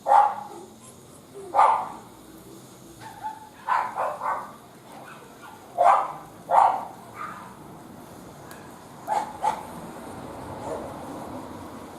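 A dog barking: about nine short barks spread over several seconds, some coming in quick pairs.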